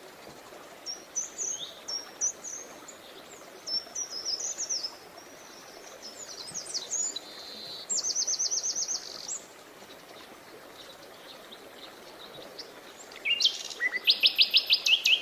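Birds chirping and singing: scattered high chirps, then a quick run of rapidly repeated notes about halfway through. After a short lull, a louder rapid series of notes comes near the end, over a faint steady background noise.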